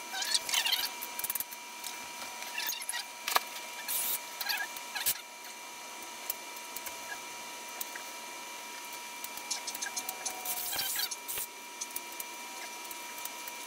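Scattered light clicks and rattles, in short clusters, over a steady high-pitched whine.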